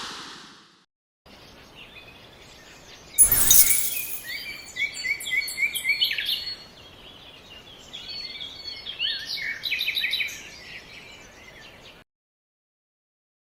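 Small birds chirping over a faint outdoor noise bed, many short rising and falling calls, with one brief loud burst of noise about three seconds in. It opens with the tail of music fading out and stops abruptly near the end.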